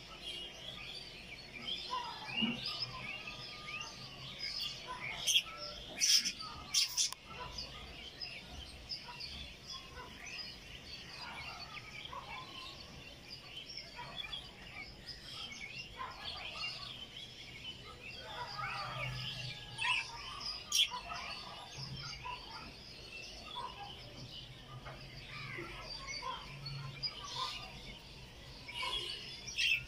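Budgerigars chattering: a continuous run of quick chirps and warbling notes. A few sharp clicks come about five to seven seconds in, and another near twenty-one seconds.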